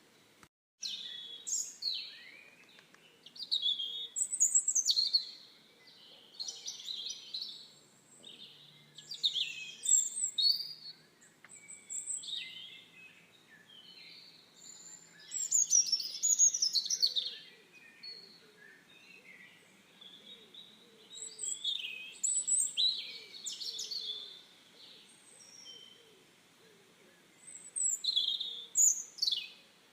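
Songbirds singing: short phrases of quick chirps and falling whistled notes, repeated every couple of seconds with brief pauses between.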